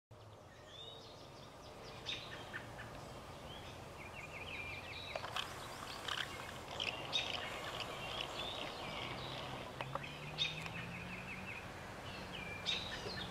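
Wild birds chirping and trilling on and off over a steady outdoor background hiss.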